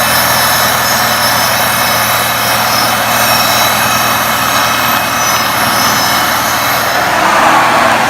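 1975 Farmall Cub's four-cylinder flathead engine running steadily while the front and rear hydraulic lifts are worked.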